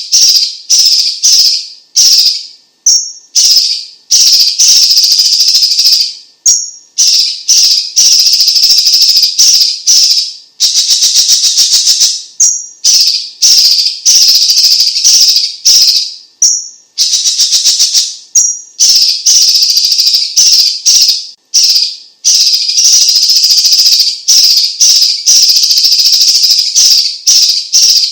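Leafbird (cucak cungkok) singing loudly in a continuous stream of rapid, high-pitched chattering phrases a second or two long, broken by brief pauses. Twice, around the middle, the song turns into a fast buzzy trill.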